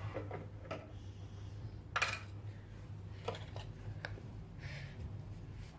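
Small plastic Playmobil toy pieces clicking and tapping as they are handled and set down: a few separate clicks, the loudest about two seconds in, over a low steady hum.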